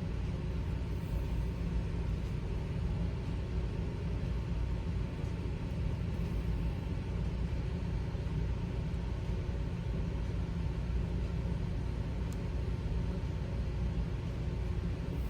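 Steady low rumble with a faint hum, unchanging throughout, with no speech or music.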